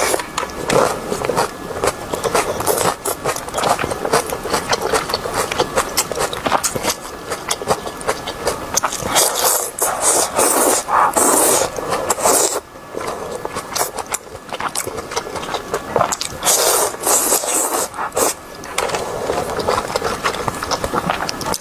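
Close-miked eating sounds: continuous wet chewing and mouth smacking with many small clicks, rising and falling in waves.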